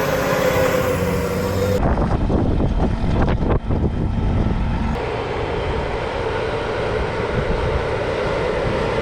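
Heavy farm machinery engines running steadily under load, the sound changing abruptly about two seconds in and again about five seconds in.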